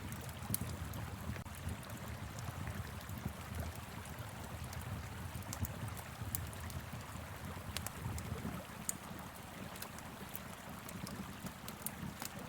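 Wood fire crackling with scattered sharp pops over the steady rush of a flowing river, with a low rumble underneath.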